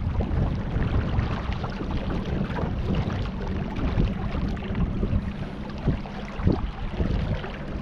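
Wind buffeting the microphone, with uneven water noise from a kayak moving on the river.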